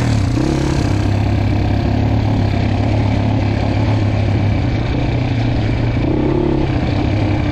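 Dirt bike engine running at low, fairly steady revs on a rough off-road trail, with a brief rise in revs about six seconds in.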